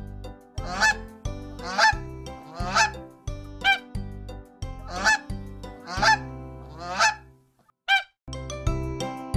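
Goose honking, about one honk a second, over background music; the music drops out briefly near the end around a single honk.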